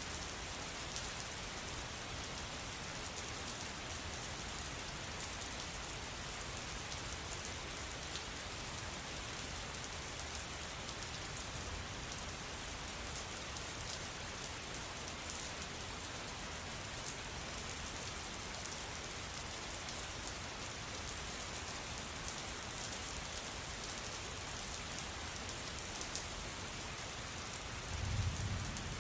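Steady rain, an even hiss with fine pattering drops. A brief low rumble comes near the end.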